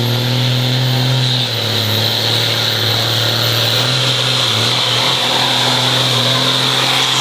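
Diesel pickup truck engine running hard at high, fairly steady revs, with a thin high whine above it.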